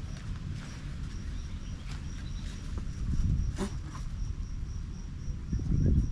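An insect calling in a steady high-pitched pulse, about three chirps a second, over a low rumble that swells twice, about three seconds in and near the end. A sharp click comes about three and a half seconds in.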